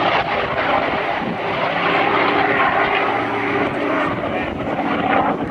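Propeller-driven piston-engined warbird flying a display pass, its engine droning steadily.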